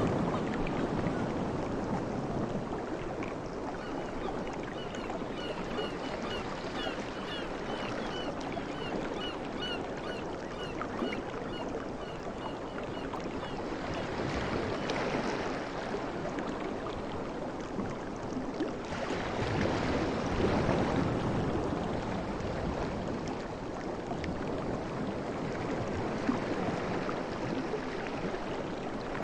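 Ocean waves washing ashore in a steady rush, swelling twice in the second half as larger waves break. In the first half, a run of short high chirps repeats about twice a second for several seconds.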